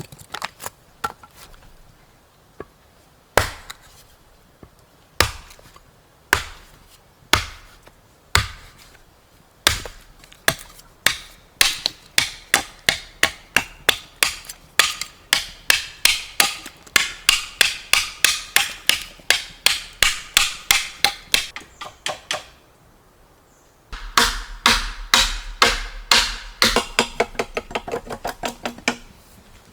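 Repeated chopping strikes of a blade into wood. Single strokes about a second apart at first, then a fast, even run of about three a second, a short pause, and another fast run.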